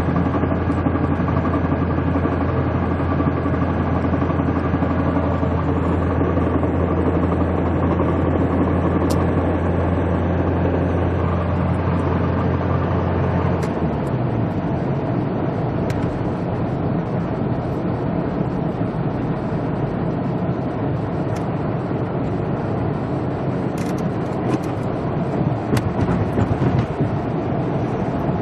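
Mercedes-Benz 240D heard with a strong, steady low drone that cuts off abruptly about halfway through, leaving an even rushing noise with a few light clicks near the end.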